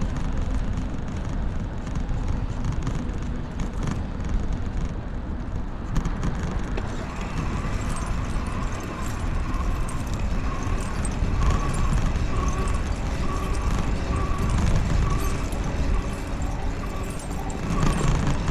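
Wind rumbling on the microphone while riding a bicycle, with a faint steady whine joining about a third of the way in.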